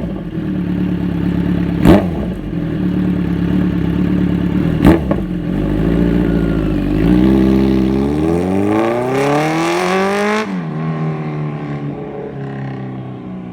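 2017 Kawasaki Z900's inline-four running through an SC Project S1 titanium slip-on with the baffle removed, doing a drive-by: a steady loud exhaust note with two sharp cracks, then a rising rev as the bike accelerates. About ten seconds in the pitch drops suddenly as it passes, and the sound fades away.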